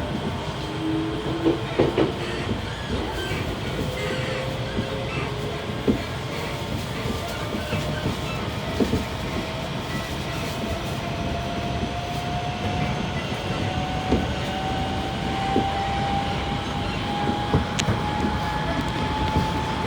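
Odakyu 1000 series electric train heard from inside a motor car: the traction motor whine rises slowly and steadily in pitch as the train gains speed, over a steady rolling rumble with scattered sharp clacks from the wheels and track.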